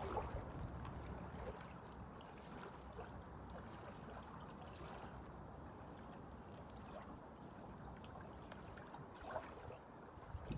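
Waves lapping and washing, a faint steady wash of water with a couple of slightly louder swells near the end.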